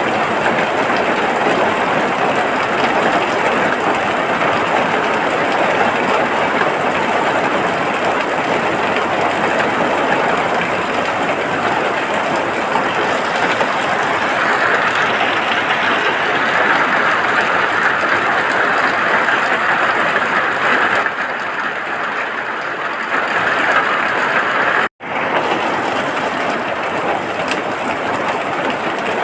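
Steady heavy rain, a dense even hiss, broken by a split-second dropout to silence about 25 seconds in.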